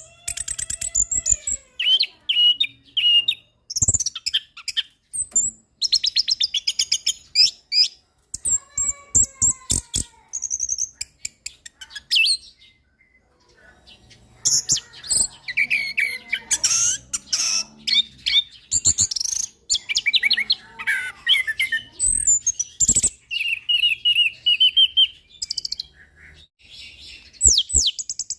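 Male orange-headed thrush singing a long, varied song of rapid trills, chattering notes and clear whistles, pausing briefly about halfway through.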